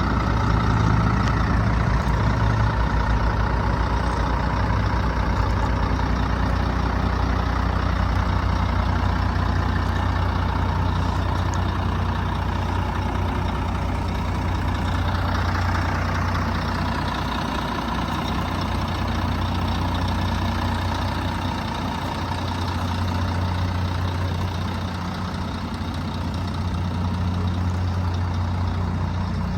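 Scania R124 400 truck's 12-litre inline-six diesel idling steadily. About halfway through, a broad hiss swells and fades over it.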